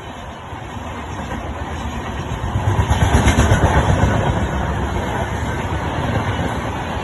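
A train passing at high speed: the rumble of the train grows louder, is loudest about three seconds in, then runs on steadily as the rest of the train goes by.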